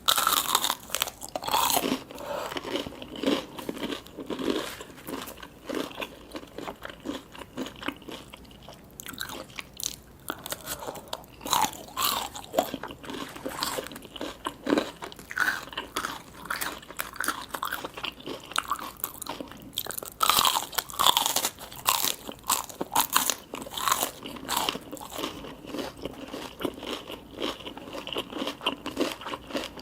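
A person biting and chewing crunchy food, with irregular crisp crunches throughout; the loudest bites come just after the start and again about two-thirds of the way through.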